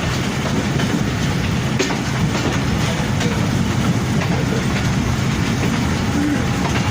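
Passenger train rolling on the rails: a steady, loud rumble with occasional faint clicks.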